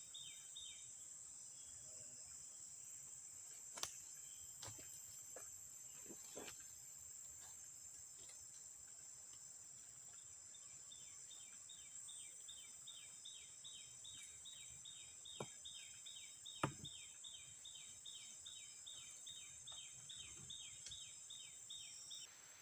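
Faint forest ambience: a steady high insect buzz, with a repeated short falling chirp call at about two and a half per second through the second half. A few sharp knocks stand out, the loudest about three-quarters of the way through.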